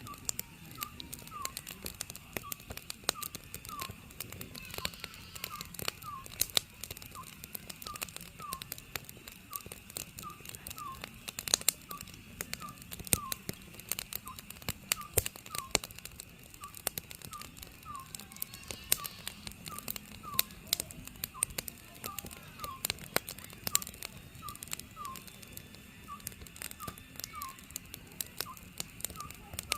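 Oriental scops owl calling: short whistled notes repeated steadily, a little under two a second, over a wood fire crackling and popping with irregular sharp snaps.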